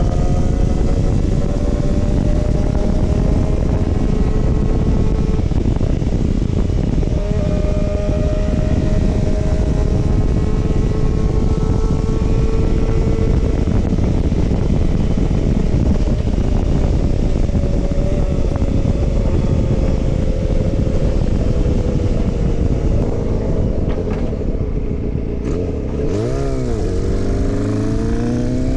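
Motorcycle engine heard from the bike while riding, under heavy wind noise on the microphone; the engine note drifts up and down with the throttle. Near the end the revs fall away sharply, then climb again as it accelerates.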